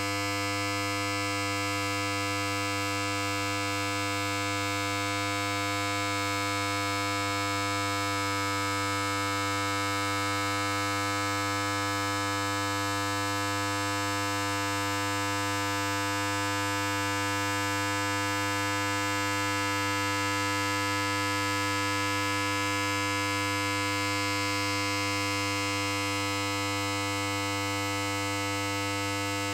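Electric hair clipper running continuously: a steady buzz with an unchanging pitch and level.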